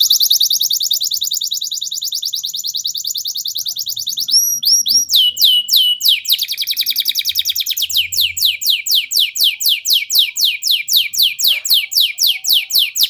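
Domestic canary singing a long rolling song: a fast trill of repeated high notes, a few slower downward-sliding whistled notes about five seconds in, then another long trill of rapid downward-sweeping notes.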